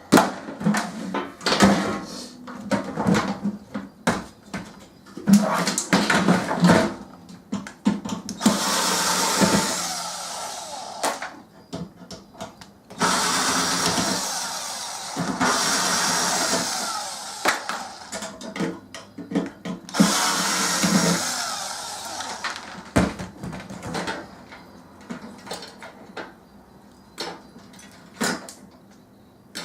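Metal parts of a microwave knocking and clanking as they are worked apart by hand, with four bursts of a power tool running about two seconds each in the middle.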